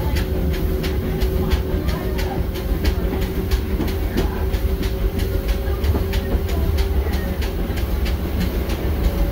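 Small-gauge passenger train car rolling along the track behind a steam locomotive, heard from aboard: a heavy low rumble with a steady hum and an even clicking a few times a second.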